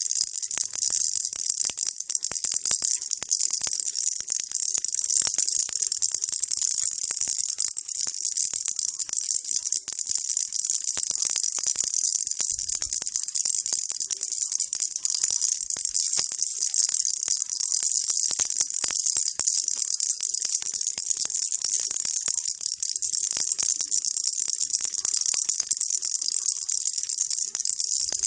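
Baby rattle shaken without a break: a dense, steady, high hissing shake of many small beads, with no pauses.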